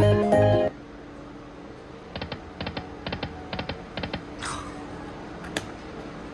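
Video slot machine sounds during a spin: a short, loud chime at the start, then a run of quick, evenly spaced clicks, mostly in pairs, over a faint steady tone, and a brief swish a little past the middle.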